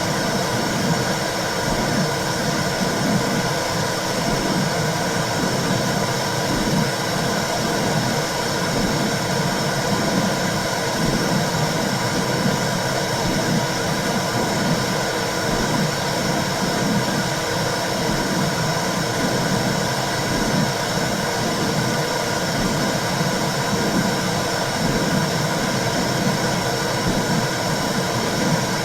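Womb sound for soothing a baby: a steady whooshing noise with a regular low throbbing pulse under it.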